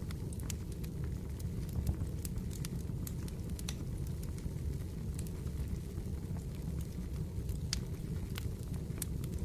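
Fireplace crackling: irregular sharp pops and snaps of burning wood over a steady low rumble of the fire.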